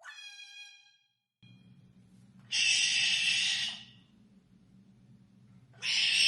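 African grey parrot vocalising: a short whistled call at the start, then two loud, harsh screeches about three seconds apart.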